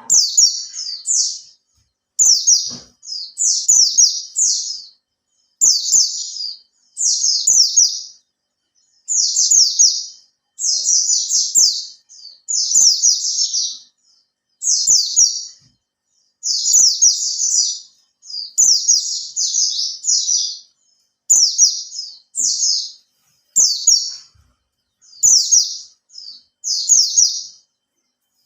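White-eye (pleci) singing: fast, high twittering phrases about a second long, repeated over and over with short pauses between them.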